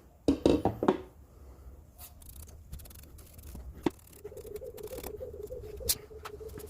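Small clicks, taps and scrapes of hands working on the exhaust flanges while the gasket and sealant go on, busiest in the first second. A steady hum sets in about four seconds in.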